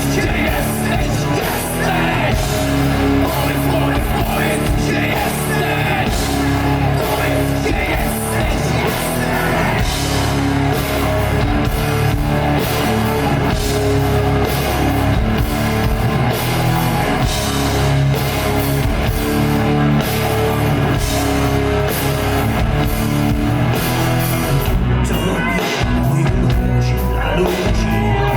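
Live metal band playing loud, with distorted guitars, bass, a drum kit and vocals. Near the end the band thins out and the cymbal hiss drops away.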